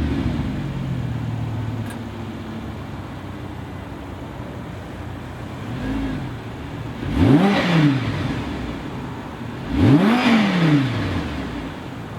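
Audi R8's 5.2-litre V10 breathing through a Tubi Style non-valved exhaust. It settles to a steady idle at the start, gives a light blip about six seconds in, then is revved sharply twice, each rev rising and falling back to idle within about a second.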